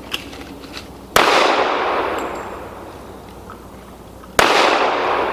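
Two loud pistol shots about three seconds apart, each followed by a long fading echo.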